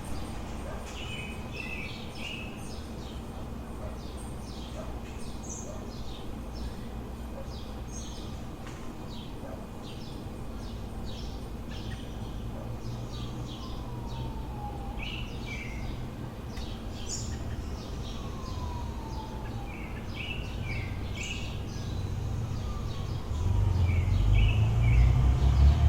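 Small birds chirping repeatedly over a steady low city hum, with a few slow falling whistles. Near the end a heavy vehicle's low rumble grows loud as it passes close by.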